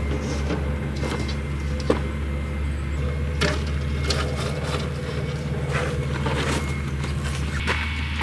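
A steady low motor hum, with scattered light clicks and knocks over it.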